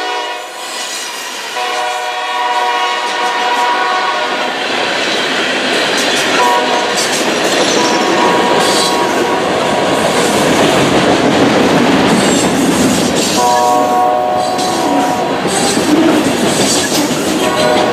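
Diesel freight locomotive horn blowing the grade-crossing signal: two long blasts, a shorter one, then a long one starting near the end. Underneath, the train's engine rumble and wheel clatter grow louder as it reaches the crossing.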